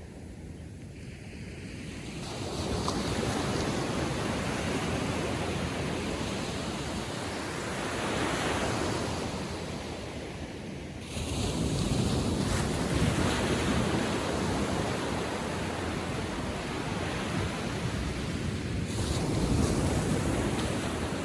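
Ocean surf from a calm sea: small waves breaking and washing up the beach in swells that rise and fall, with a sudden louder wash about halfway through. Wind buffets the microphone.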